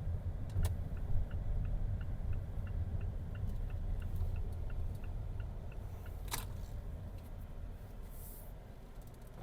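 Low rumble of a slowly moving motor vehicle with a turn indicator ticking about three times a second; the ticking stops right after a sharp click about six seconds in, and the rumble fades toward the end.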